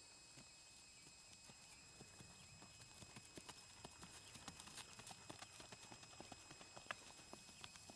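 Faint, quick hoofbeats of a Peruvian Paso horse being ridden, a rapid run of light clops that grows louder and more distinct about two or three seconds in.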